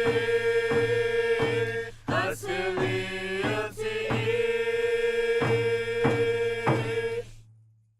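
Outro music: a voice chanting long held notes over a steady beat of about one and a half strokes a second, stopping about seven seconds in.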